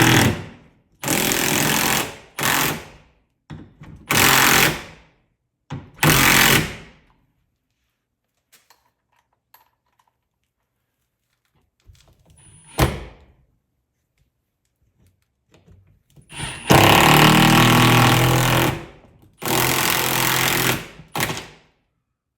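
Cordless impact driver hammering mounting fasteners into the wall in short trigger bursts. Several brief runs come in the first seven seconds, a single sharp knock falls near the middle, and two longer runs come near the end.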